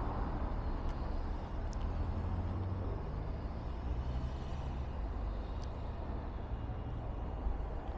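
Road traffic: a vehicle engine running with a steady low hum over a background of traffic noise.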